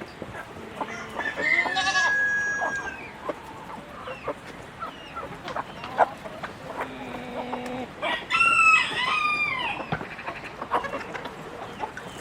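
A flock of chickens clucking with many short calls, and two longer drawn-out calls from a rooster crowing: one about a second in, and a louder one about two-thirds of the way through that falls in pitch at its end.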